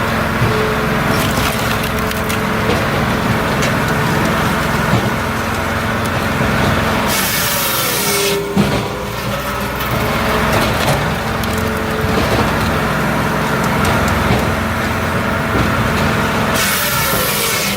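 Multitek 1620SS firewood processor running on its 44-horsepower diesel engine, a steady drone, as it works through logs. Twice, about nine seconds apart, a loud rushing burst lasting about a second rises over the drone, and the first is followed by a sharp knock.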